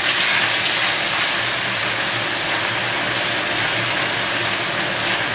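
Chopped chilli, shallot and garlic sizzling steadily in hot oil in a nonstick wok, stirred with a spatula as the paste fries.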